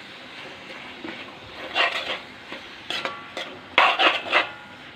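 A spoon scraping and clinking against a cooking pan in three short bouts, one with a brief metallic ring, as onions and tomato are stirred over a faint sizzle.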